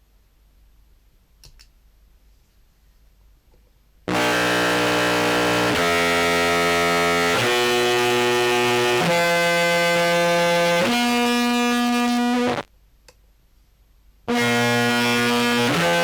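Contrabass clarinet played through fuzz pedals with the drive turned up and octave-up and octave-down effects mixed with the dry sound: a run of held, heavily distorted notes, each lasting about one and a half to two seconds. The notes begin about four seconds in and break off briefly near the end before another note starts.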